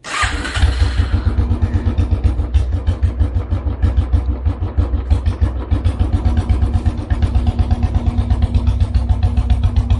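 Royal Enfield Classic 350's single-cylinder engine running at a steady low speed through an aftermarket exhaust, giving an even beat of about seven pulses a second.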